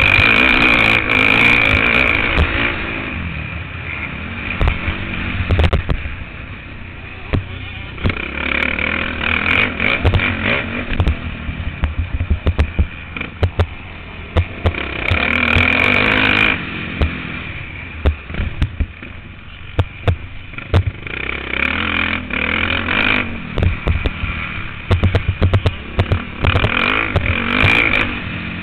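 Motocross bike engine heard through an on-board camera, opening up hard in about five bursts and dropping back between them as the bike is ridden around the track. Rattling knocks from the bike over the bumps run through it.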